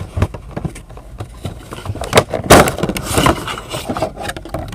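Cardboard and plastic packaging handled and opened: irregular clicks and knocks, with a louder burst of crinkling rustle about two and a half seconds in.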